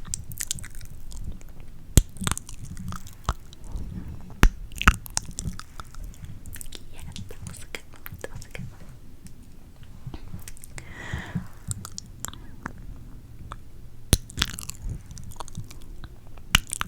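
ASMR mouth sounds made right at a sensitive microphone: irregular wet clicks and smacks, a few much louder than the rest, with one longer breathy hiss about eleven seconds in.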